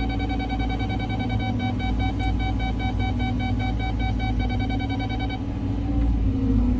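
Caterpillar 323 excavator's diesel engine running with a steady low rumble, under a high-pitched, rapidly pulsing tone that stops about five seconds in. Near the end a rising whine comes in as the engine picks up.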